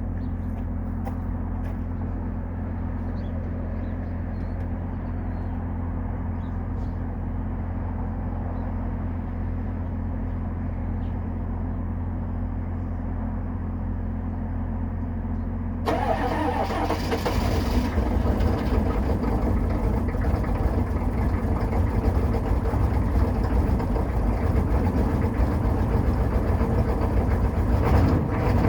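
A steady low hum for about the first half. Then, a little past halfway, the 1995 Chevy 2500's 6.5-litre V8 diesel is cranked and fires on a cold start, and runs unevenly at idle to the end.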